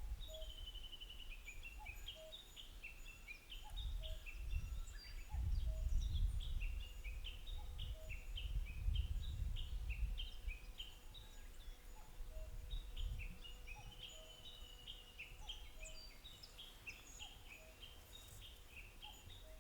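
Birds singing outdoors: a quick, continuous run of high, falling chirping notes, with a low rumble swelling and fading between about 4 and 13 seconds in.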